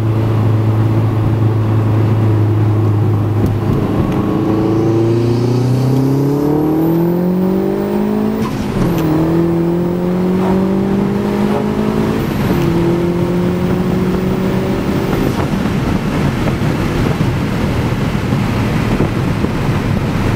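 Turbocharged four-cylinder engine of a 2009 Mazdaspeed3 with a catless turbo-back exhaust, heard from inside the cabin. It holds a steady note, then pulls hard from about four seconds in with its pitch rising. It makes two quick flat-foot upshifts, about eight and a half and twelve and a half seconds in, where the pitch drops sharply and climbs again. About fifteen seconds in, the engine note falls away under a steady wash of wind and road noise.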